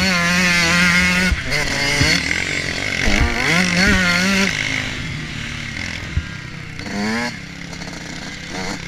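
Motocross bike engine revving up and down as the throttle opens and closes, with wind noise and a few sharp knocks. It eases off after about five seconds, with a short rising rev near seven seconds.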